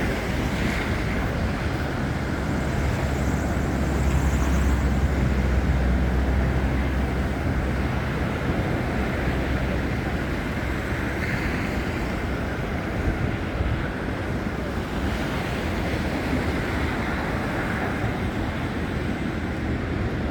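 Wind buffeting a phone's microphone as a steady rushing noise, with a deeper rumble swelling from about three to seven seconds in.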